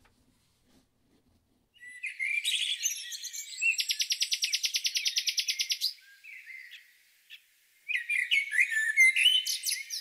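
Songbird chirping and trilling, starting about two seconds in: a burst of chirps, then a rapid, even trill lasting about two seconds, a short pause, and more quick chirps near the end.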